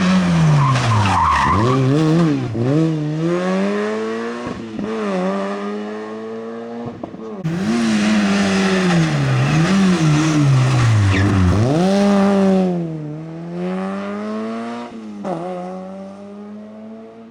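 Rally cars driven flat out, each engine's pitch dropping under hard braking and downshifts, then climbing in steps through the gears. There is a brief tyre squeal about a second in. The sound breaks off suddenly about seven seconds in and a second hard-driven pass follows, fading toward the end.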